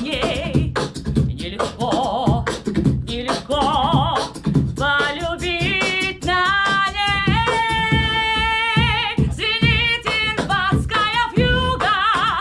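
Wordless sung vocalise by a female voice, with wide vibrato and a long held note in the middle, over a pop backing track with a steady beat.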